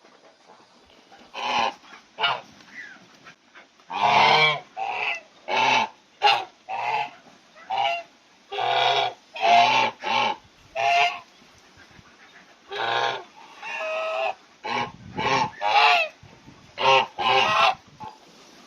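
An animal giving a long series of loud, short honking calls, each under a second, with a brief pause about twelve seconds in.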